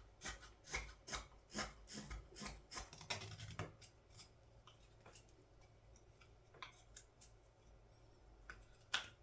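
Fine carving knife shaving wood off a wooden scoop in short, even slicing strokes, about two a second, then fewer and fainter cuts, with one sharp click near the end.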